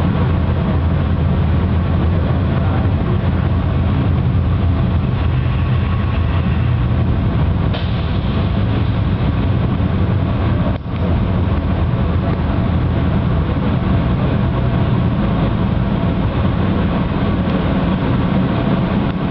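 Metra commuter train running slowly, heard from on board: a steady low rumble of the moving train over the rails, with a brief dip in loudness about halfway through.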